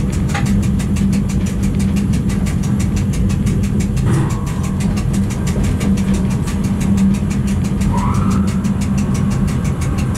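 Electric train running along the track, heard from the driver's cab: a steady low rumble of wheels and motors.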